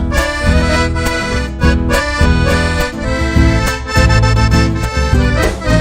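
Live Argentine folk music, an instrumental passage led by accordion over a steady beat.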